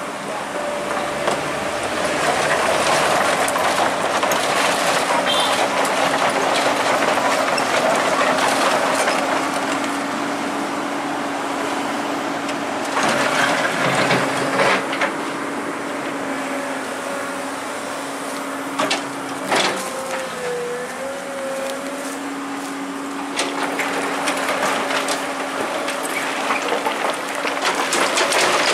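Heavy machinery engine running steadily under load with a constant whine. The tone dips briefly about two-thirds of the way through, and sharp knocks and clanks come around the middle and again near the end.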